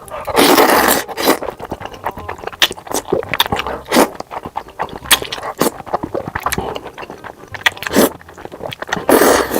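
Close-miked ASMR eating of noodles: two long noisy slurps, one about half a second in and one near the end, with wet clicks and chewing in between.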